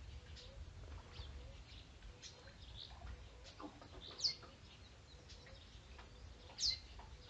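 Birds calling: two sharp, high calls sweeping downward, about four and six and a half seconds in, over scattered faint chirps and a soft low note repeating about twice a second, with a low rumble underneath.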